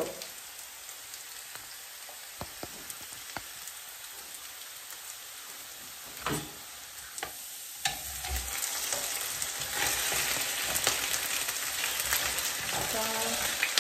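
Thin straw-cut potatoes frying in hot oil in a frying pan: a steady crackling sizzle. A couple of short knocks come about six and seven seconds in, and from about eight seconds the sizzle grows louder.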